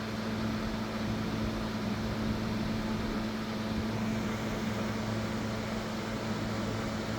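A steady mechanical hum: a low two-tone drone under an even hiss that does not change.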